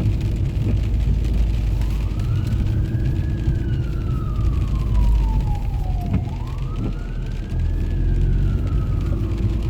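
Emergency vehicle siren in a slow wail, rising and falling twice, over a steady low rumble.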